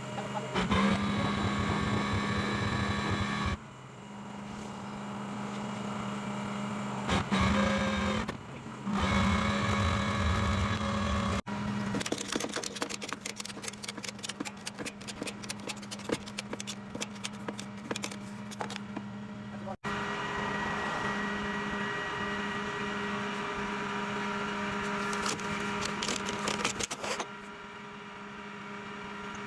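Tow truck running steadily while a car is loaded onto it, with a constant mechanical hum. In the middle stretch there is a rapid run of clicking and rattling, and the sound breaks off abruptly twice.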